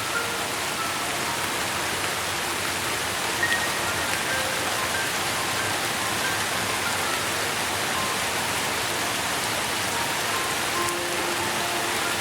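Steady rain falling, an even hiss, with faint short pitched notes scattered through it.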